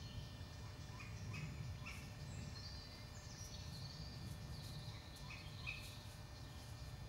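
Birds singing in woodland: a high warbling song with short chirps repeated every half second or so in two runs, over a low steady rumble.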